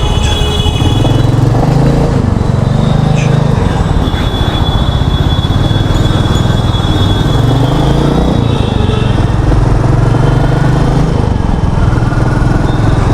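Royal Enfield Meteor 350's single-cylinder engine running as the motorcycle rides through city traffic, its note swelling and easing with the throttle. A faint high steady tone sits in the background for a few seconds in the middle.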